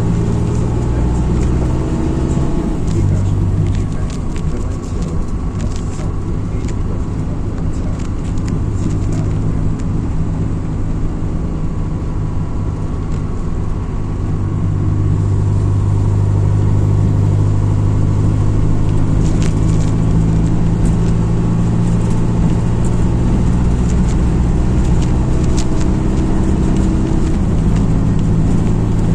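MAZ-206 city bus heard from inside while driving: a steady low engine drone whose pitch shifts slightly a few times, with occasional light clicks and rattles.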